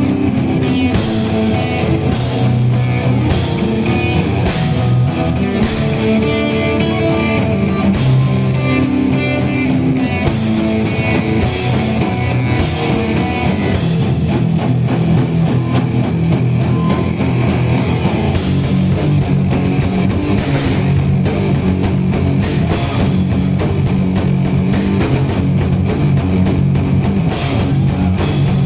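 Live heavy-metal band playing an instrumental passage: distorted electric guitars, bass and a drum kit with regular cymbal crashes.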